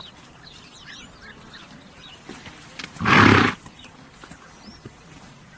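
A horse gives one short, loud snort, a noisy blow of air through its nostrils, about three seconds in.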